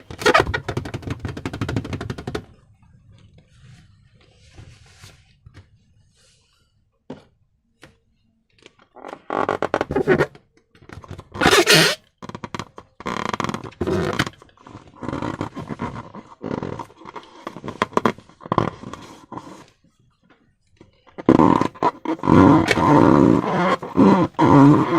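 Slime and rubber balloons handled close to the microphone: wet squelching, scraping and rubbing in irregular bursts. There is a quieter stretch early on, a short sharp burst just before the midpoint, and busier squishing near the end.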